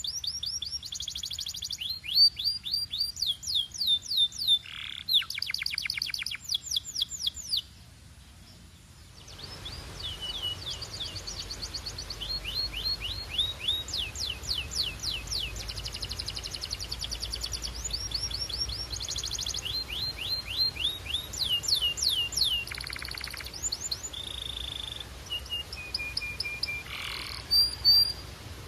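Domestic canary singing: fast trills of repeated down-sweeping notes, with a short pause about eight seconds in. A low background rumble comes in after the pause.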